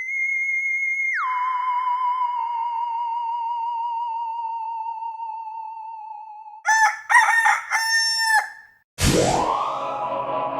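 A run of sound effects: a steady high electronic tone drops in pitch about a second in to a lower, wavering tone that sinks slowly for about five seconds; then a rooster crows, a few short notes and a long final one; then a sudden loud musical hit swoops up from low and holds as a rich chord near the end.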